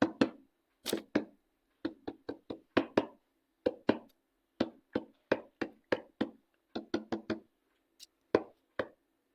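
Instrumental break in a song: short, sharp percussion knocks in an uneven, syncopated pattern, about three a second, over a faint held low note. The knocks stop shortly before the end.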